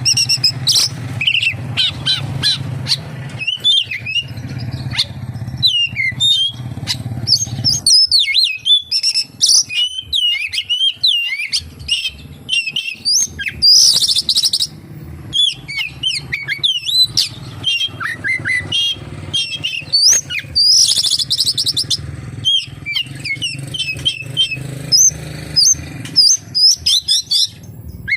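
Oriental magpie-robin (kacer) singing a fast, varied song of whistles and chirps packed with mimicked phrases of the kapas tembak, with two short harsh buzzy bursts about halfway through and again about three quarters through, over a steady low hum.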